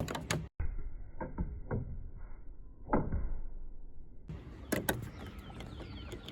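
A stick knocking against a playground slide: a handful of scattered sharp knocks and taps, with a brief cut-out in the audio about half a second in.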